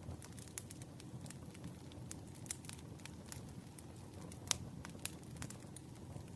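Wood fire burning with a low steady rumble and frequent irregular crackles and pops, a sharper snap about four and a half seconds in.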